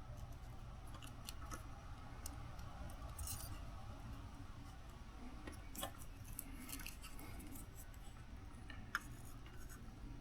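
Faint scattered clicks and light scrapes of small tools and parts being handled during circuit-board repair, over a low steady hum.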